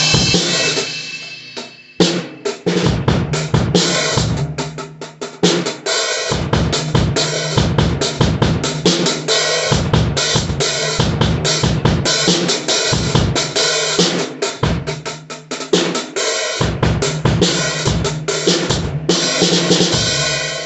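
Acoustic drum kit being played: a cymbal crash rings and fades over the first two seconds, then a busy, fast run of bass drum, snare and cymbal hits carries on, with a brief gap about six seconds in.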